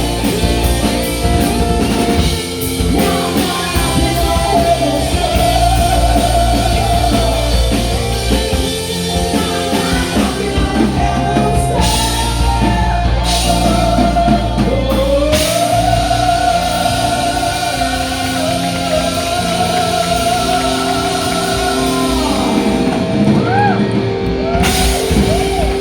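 Rock band playing, with a drum kit, guitar and crashing cymbals under long held lead notes with vibrato. One lead note slides up about halfway through and is held for several seconds.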